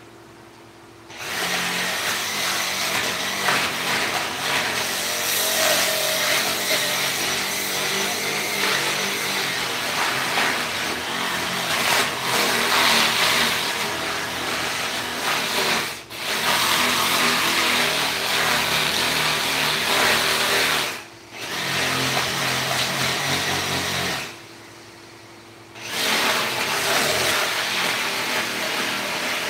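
Handheld power tool running on a wood carving in long, steady bursts. It starts about a second in, cuts out briefly twice, then pauses for a second or two near the end before starting again.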